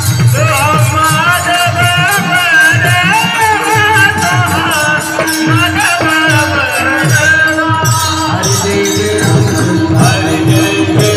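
Marathi devotional kirtan singing with mridang drum accompaniment: voices singing a melodic line over a steady held note, with low drum strokes and fast metallic jingling percussion.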